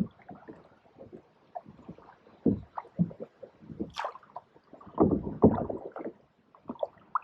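Canoe paddles dipping and pulling through still pond water in irregular strokes, with splashes and drips, and a sharp knock about four seconds in.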